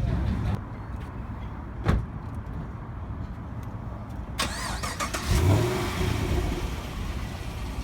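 Car engine rumbling at low speed, then surging louder about four and a half seconds in, like an engine starting or being revved.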